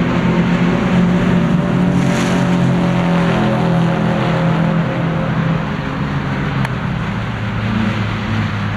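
Porsche 997 Turbo's twin-turbo flat-six running under load through an AWE aftermarket exhaust. The engine note holds fairly steady, then drops in pitch and loudness about two-thirds of the way in and climbs slowly again near the end.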